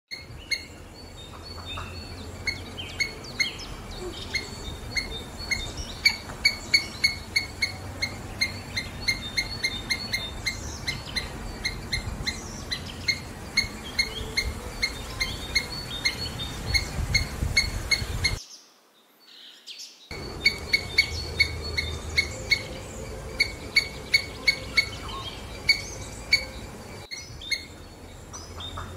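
A bird chirping over and over in a fast, regular series of short high chirps, a few a second, over a faint low rumble of outdoor ambience. The chirping breaks off for about a second and a half of near silence about two-thirds of the way through, then carries on.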